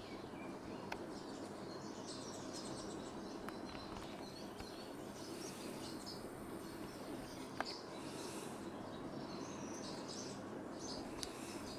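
Faint outdoor ambience with many short, high bird chirps and peeps scattered throughout, and a few sharp clicks, the loudest about seven and a half seconds in.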